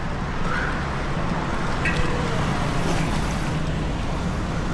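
Steady road traffic noise, with a low engine rumble from passing or idling vehicles.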